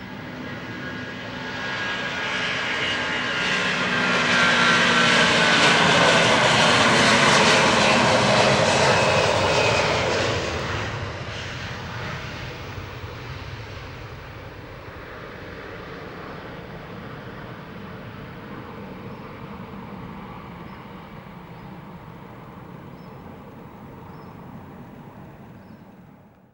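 Airbus A330-243 jet airliner's Rolls-Royce Trent 700 turbofans at takeoff power as it passes, with shifting engine tones early on; it grows to its loudest about five to ten seconds in, then fades to a lower, steady engine noise as it climbs away.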